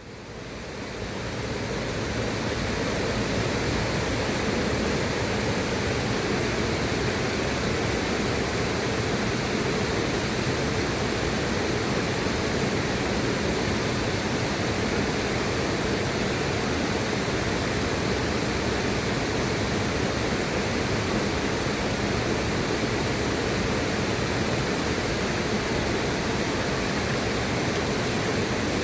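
River water rushing steadily, an even wash of water noise that fades in over the first couple of seconds and then holds level.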